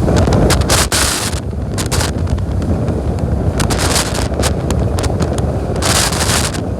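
Boat running at speed on open water: a steady low rumble of engine and hull, with wind buffeting the microphone in repeated loud gusts.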